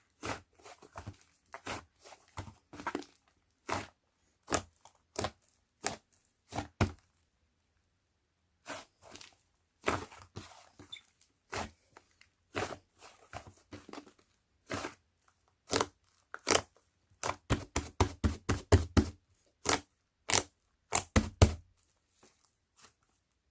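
Slime being pressed and squeezed by hand, making irregular sharp pops and clicks as air pockets burst. They stop for about a second and a half after seven seconds, then come quicker and louder later on.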